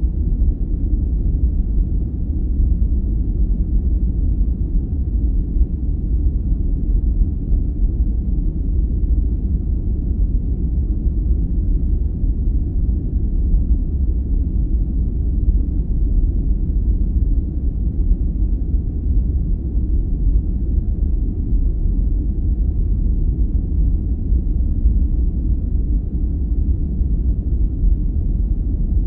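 Steady, even, deep rumbling noise from a sleep-aid noise track, with most of its energy in the bass and almost no high end. It does not change.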